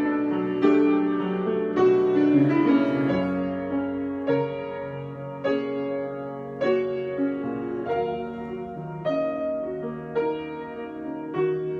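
Slow improvised piano music: chords struck about once a second, each left to ring and fade into the next.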